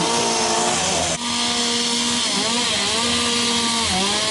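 Chainsaws carving wood, their two-stroke engines revving up and down as they cut, with a brief break about a second in.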